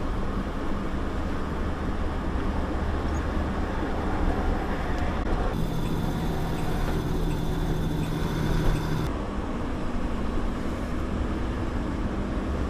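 Truck being driven: steady engine rumble and road noise. For about three seconds in the middle a steady hum joins in, starting and stopping abruptly.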